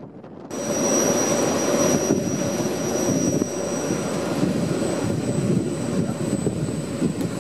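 Running noise of a metre-gauge Matterhorn Gotthard Bahn train heard from an open carriage window: a steady rumble of wheels on rails with rushing air, and thin high steady whines above it. The sound starts abruptly about half a second in.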